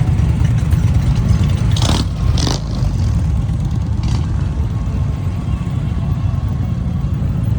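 Motorcycle engines running with a steady low rumble, with a few short clatters about two seconds in.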